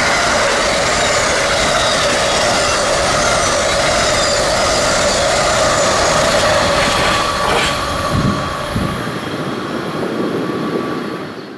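A train passing close by: a steady, loud rush of wheels on rail, with thin squealing tones from the wheels that drift slowly down in pitch.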